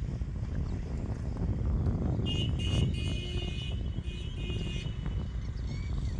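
Mahindra 275 DI tractor's three-cylinder diesel engine running steadily with a low rumble. From about two seconds in to about five, a high-pitched tone sounds over it in several short pulses.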